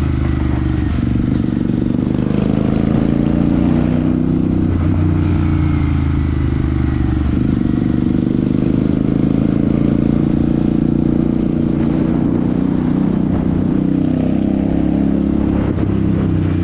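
Royal Enfield Super Meteor 650's 648 cc parallel-twin engine and exhaust under way on the road, its note rising and falling a few times with the throttle.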